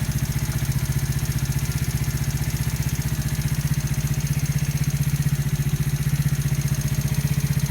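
Small four-stroke engine idling steadily with a regular knocking tick. The engine is new, about 200 km, with valve clearances set to 0.05–0.07 mm, and the owner does not know the cause of the knock.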